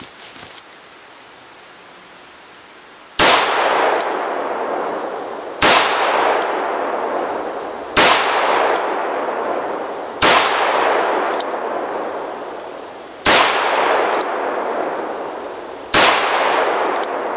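Ruger Vaquero single-action revolver in .45 Long Colt firing six shots, one every two to three seconds, the first about three seconds in, emptying its six-round cylinder. Each loud shot is followed by a long echo that dies away over a couple of seconds.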